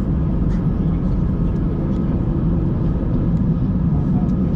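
Steady low rumble inside the cabin of an Airbus A320 in motion: engine and airflow noise, with a few faint rattles.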